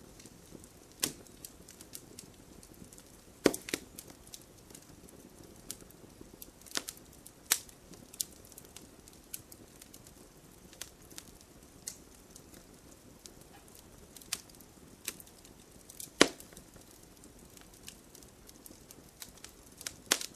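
Wood fire crackling, with irregular sharp pops and snaps over a soft hiss and a few louder pops among them.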